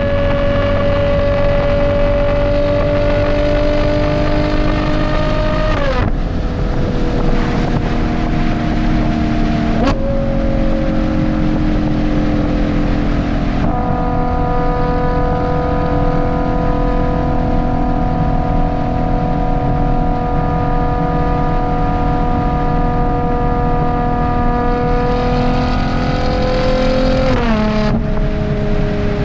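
Ferrari Purosangue's V12 engine through a Novitec race exhaust, driving at steady throttle. Its note climbs slowly and drops suddenly at upshifts about six seconds in and again near the end, and steps up once midway at a downshift.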